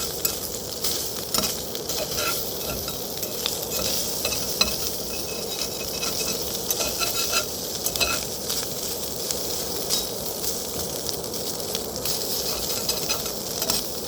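Food frying in a pan: a steady sizzle with many small crackles and pops.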